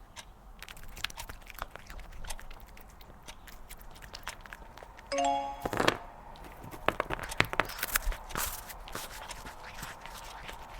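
A cat eating treats: scattered clicks, taps and crunches, busiest from about six to nine seconds in, with a short pitched tone about five seconds in.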